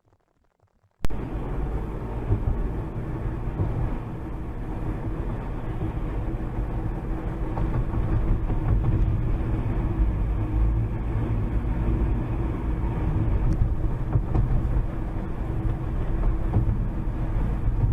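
Steady vehicle running and road noise, heavy in the low end with a faint steady hum, cutting in suddenly about a second in after near silence.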